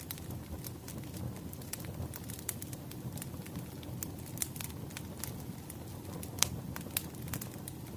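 Wood fire crackling: a steady low rumble of burning logs with irregular snaps and pops, two of them sharper near the end.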